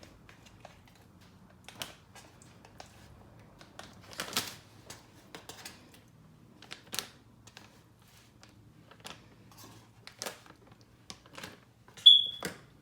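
Plastic food bag rustling and crinkling, with scattered irregular clicks and taps as raw chicken tenders are handled and put into it. A short high squeak sounds near the end.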